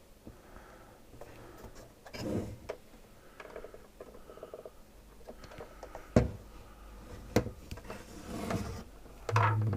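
Handling noise from the opened plastic housing of a SodaStream soda maker: faint rustling with a few scattered light clicks and knocks, the sharpest about six seconds in.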